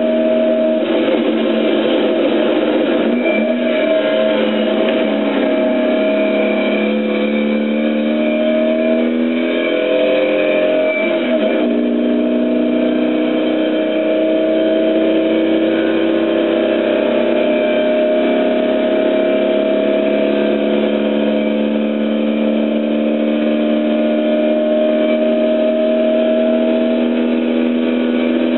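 Car engine heard from inside the cabin, pulling hard uphill: its note rises slowly, breaks at a gear change about eleven seconds in, then climbs steadily again.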